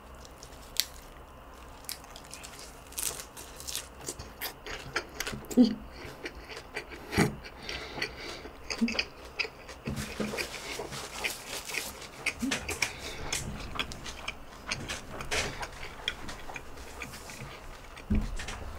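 Close-up chewing of a mouthful of lettuce wrap with pork and rice: an irregular run of soft crunches and wet mouth clicks.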